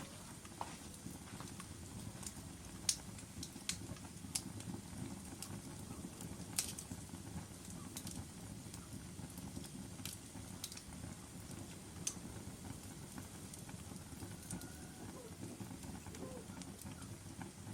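Wood logs burning in a fireplace: a steady low rumble of the flames with sharp crackles and pops every second or so, the loudest about three, six and a half and twelve seconds in.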